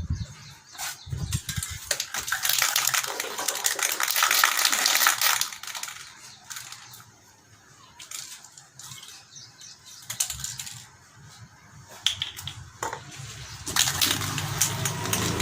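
Aerosol spray can of matte black paint hissing in one steady spray lasting about three and a half seconds, with scattered clicks and knocks before and after, and another burst of hiss near the end.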